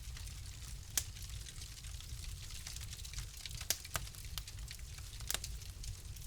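Wood fire crackling in a fireplace: sharp pops about a second in, two close together past the middle, and another near the end, over a steady low rumble and faint hiss of the burning fire.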